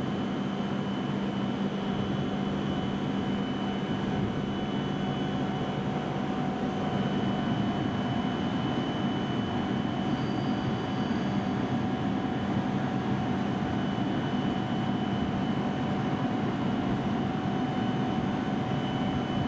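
Steady, unchanging hum of a stationary E7 series Shinkansen train, its onboard equipment running while it stands at the platform. Several steady tones sit in the drone.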